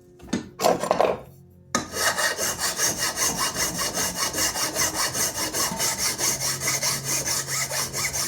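A hand tool working back and forth on the old wooden knife handle in rapid, even scraping strokes, several a second, after a couple of short knocks.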